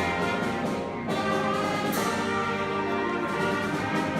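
School concert band playing live, wind and brass instruments holding full chords, with new chords starting about one and two seconds in.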